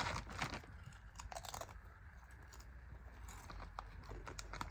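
Someone chewing crunchy snacks: irregular crisp crunches, dense in the first second or two, then sparser and fainter.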